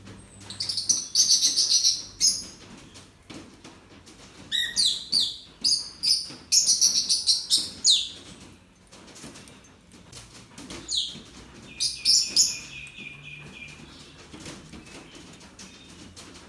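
Small birds chirping in three bouts of rapid, high-pitched notes, with quieter stretches between them and a short held whistle-like note near the end of the last bout.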